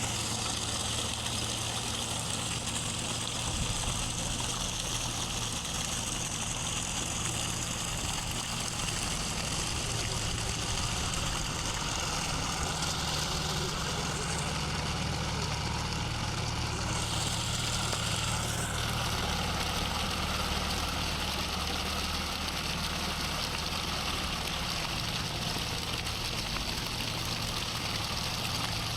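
John Deere tractor's diesel engine running steadily while working a rotavator.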